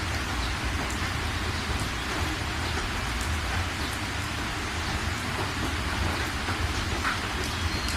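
Steady rain falling: a continuous hiss with scattered separate drops ticking through it and a low, even rumble underneath.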